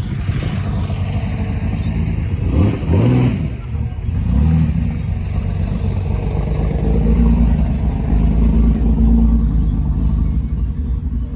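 A car engine running with a loud, deep rumble, revved sharply about two and a half seconds in and again shortly after, then swelling louder for a couple of seconds near the end.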